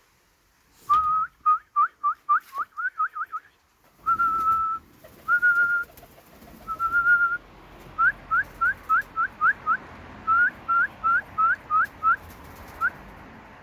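A pigeon keeper whistling to call his flying pigeons down. There is a quick run of short rising chirps, then three held notes, then another long run of quick rising chirps.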